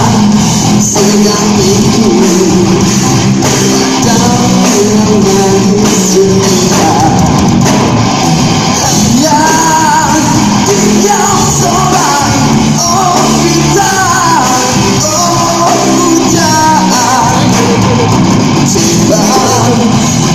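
Live rock band playing loudly, with a steady full band underneath. A melody line, sung or played on a lead instrument, wavers over it from about halfway through.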